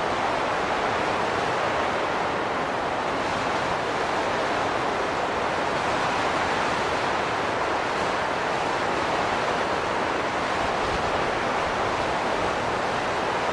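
Steady rushing wind, even in level throughout, with no distinct gusts.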